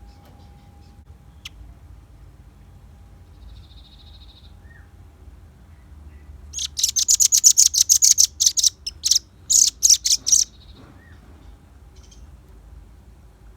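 Velvet-fronted nuthatch singing: a loud, fast run of sharp high chips, several a second, lasting about four seconds with a brief break near the end. A fainter short buzzy note comes a couple of seconds before it.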